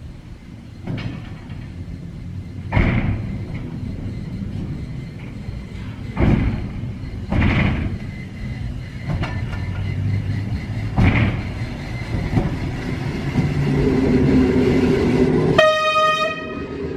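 A train running along the track, its wheels knocking loudly over rail joints several times, with a short horn blast near the end.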